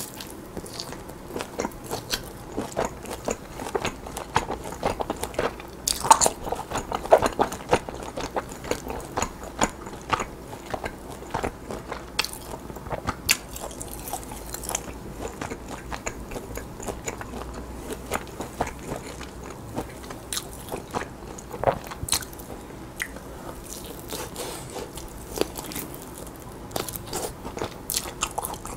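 Close-miked chewing and biting of grilled lamb ribs, meat torn from the bone, with irregular sharp clicks and crunches throughout.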